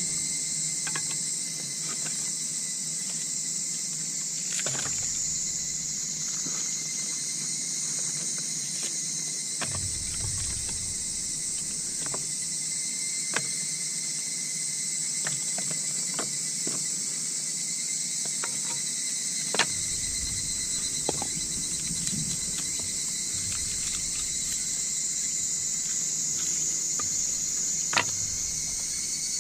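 Night insects, crickets among them, chirring in a steady high-pitched chorus, with a second steady thin tone beneath it. Scattered sharp clicks break in a few times.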